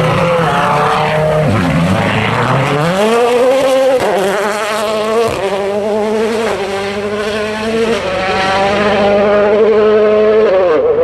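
A 2017 World Rally Car's turbocharged four-cylinder engine at hard throttle. The revs dip and climb through gear changes, hold high and steady for several seconds, then fall near the end.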